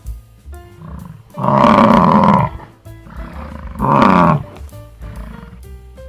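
Two loud animal calls, a long one about a second and a half in and a shorter one near four seconds, over background music.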